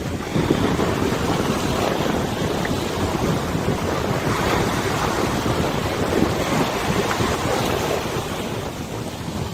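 River water washing and lapping, with wind buffeting the microphone in uneven gusts.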